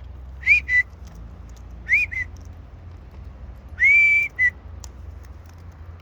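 A person whistling three times to call birds. Each whistle rises and then holds, followed by a short second note, and the third is the longest.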